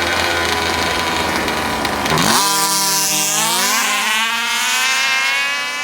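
Two-stroke engine of a large-scale gas RC car running low, then revving up sharply about two seconds in, climbing steeply in pitch with a brief dip partway, then holding a high steady note as the car accelerates.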